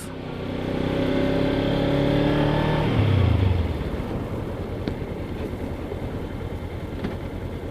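Motorcycle engine pulling with slowly rising pitch for about three seconds, then the throttle closes and it drops to a low, evenly pulsing run.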